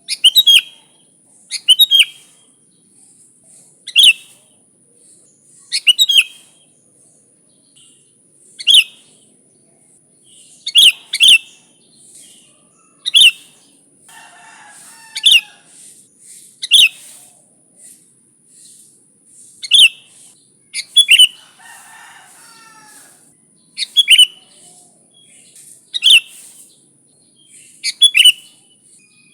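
Sooty-headed bulbul calling: loud, sharp call notes, some single and some in quick pairs, coming about every two seconds over a steady high hiss. Fainter, lower warbling can be heard twice in the background.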